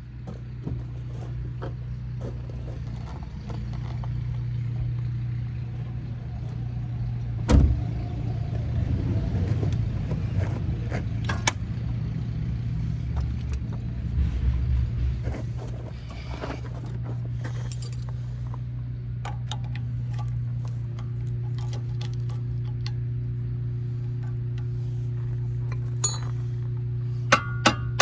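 Hand tools knocking and clanking against metal while a car's front control arm is worked loose, with one loud knock about seven and a half seconds in. A steady low hum runs underneath. A few quick metallic clinks come near the end.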